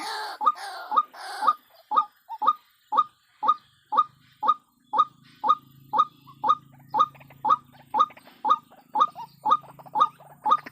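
White-breasted waterhen (ruak-ruak) calling: a monotonous series of short, identical notes repeated evenly about twice a second.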